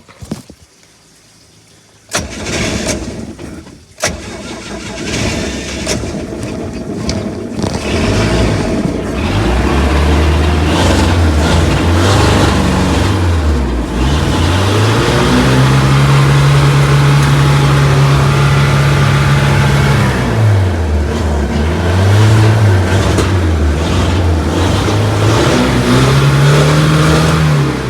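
Boat engine starting up: it bursts into life about two seconds in, then runs and is revved up and down several times, held at a higher speed for a few seconds in the middle before dropping back.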